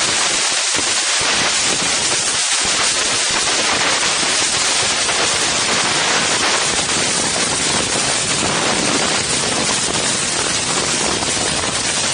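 Strong wind blowing across the microphones of an Insta360 One X camera: a loud, steady rushing noise.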